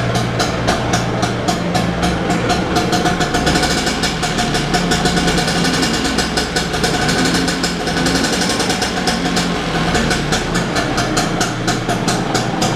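A 1964 Vespa VBB's 150 cc single-cylinder two-stroke engine running steadily, with an even, rapid beat.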